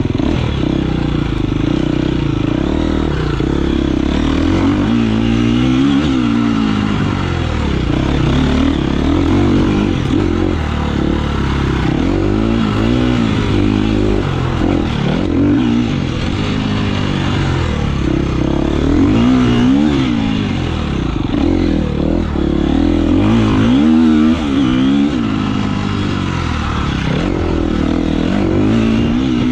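Off-road motorcycle engine running loud, its pitch rising and falling over and over as the throttle is opened and closed.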